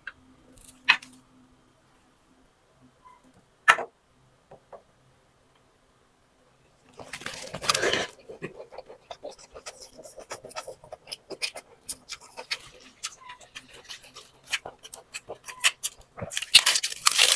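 Someone eating noodle soup: a couple of sharp clicks, then about 7 seconds in a loud slurp, followed by continuous wet chewing and mouth noises with small clicks.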